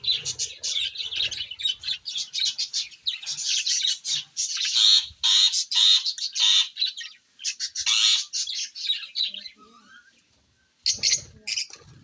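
Pet parrots calling in a dense run of rapid chirps and squawks, loudest in the middle, then falling almost silent before a short burst of calls near the end.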